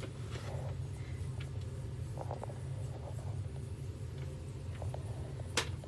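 Faint clicks and rustles of handling over a steady low hum, with one sharper click near the end.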